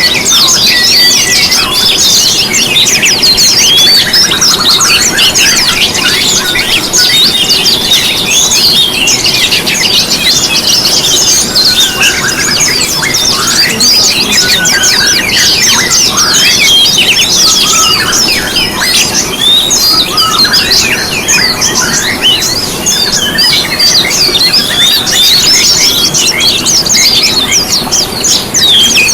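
Dense, overlapping chorus of many small songbirds, with rapid chirps, twitters and quick up-and-down whistles, never pausing. It is a bird lure recording ('pancingan') meant to stir caged songbirds into singing.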